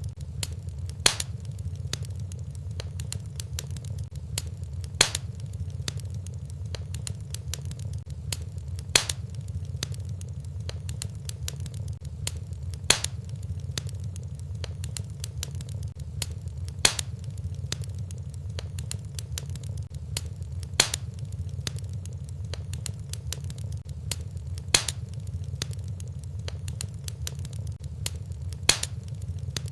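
Wood fire crackling in a fireplace: a steady low rumble of flame under constant small crackles, with a sharper, louder pop about every four seconds.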